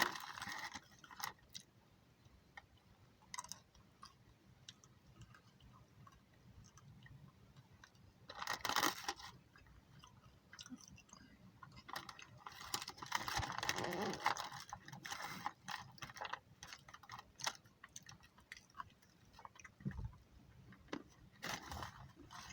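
Soft chewing and crunching close to the microphone, with scattered small clicks, two louder noisy stretches about 8 and 13 seconds in, and a low thump near the end.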